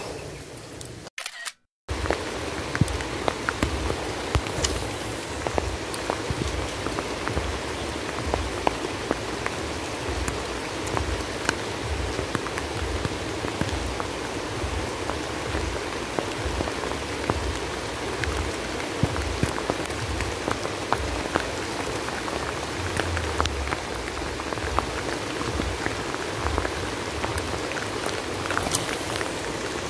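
Steady heavy rain falling on a pond and bank, with many close, sharp raindrop ticks. It starts after a brief dropout about a second and a half in.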